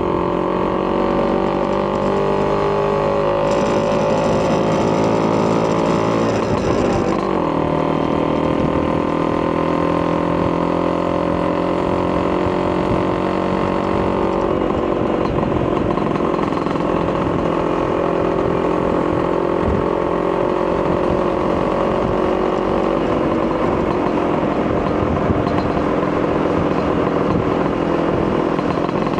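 Vespa PX200 two-stroke single-cylinder engine with a Polini 210cc kit and a Marossi expansion-chamber exhaust, running steadily. The note sags slowly, shifts about six to seven seconds in, then holds with a small drop in pitch near the middle.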